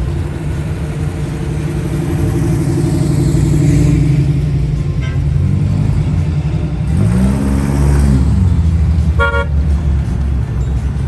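Cars cruising past with their engines running; one car passes about seven seconds in, its engine note rising and then falling. A car horn toots once, briefly, about nine seconds in.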